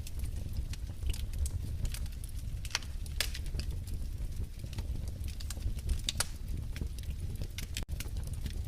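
Wood fire in a fireplace crackling: irregular sharp pops and snaps over a low steady rumble of the burning logs, with a momentary cut-out about eight seconds in.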